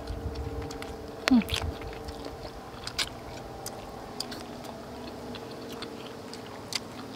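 A person eating chicken with her fingers: chewing, with scattered wet lip-smacking clicks and a brief falling vocal sound about a second in. A faint steady hum runs underneath.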